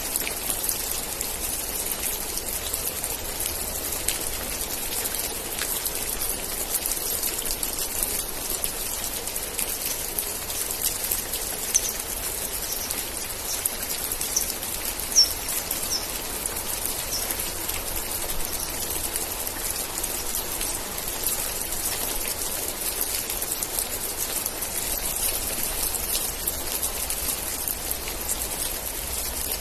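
Steady heavy rain falling, a dense hiss of drops pattering on surfaces. A few short, high chirps, likely a bird, come through near the middle.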